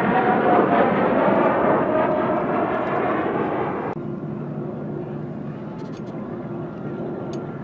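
Aircraft flying past, its engine pitch falling slowly as it goes by and the sound fading. About four seconds in, the sound cuts off abruptly to a quieter, steady rumble.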